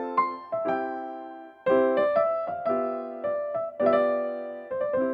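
Background music: a piano or electric piano playing a light melody of struck chords and notes, each ringing and fading.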